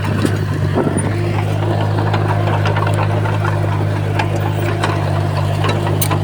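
Komatsu bulldozer's diesel engine running steadily, with scattered short clicks and knocks over it.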